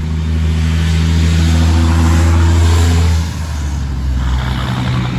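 Heavy truck passing close by on the road, its engine a loud deep drone that builds and then drops off abruptly about three seconds in, leaving a lower traffic rumble.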